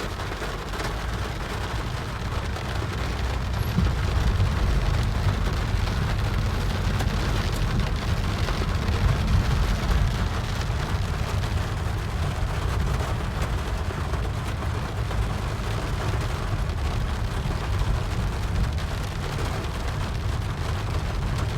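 Heavy rain falling, a steady hiss over a continuous low rumble.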